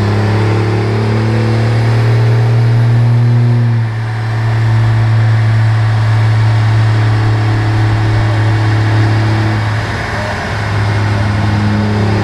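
Turbo-diesel pickup engine running loud and steady under load on a chassis dyno, its level dipping briefly about four seconds in and again about ten seconds in.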